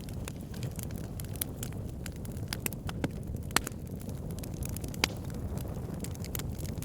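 Burning wood logs crackling: a steady low rumble of flame with frequent irregular snaps and pops, two of them louder, one a little past the middle and one about five seconds in.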